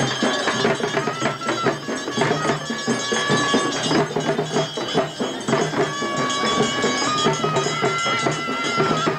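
Traditional ceremonial music played live: drums beaten fast and continuously under a reed wind instrument holding long notes that step in pitch, over a steady drone.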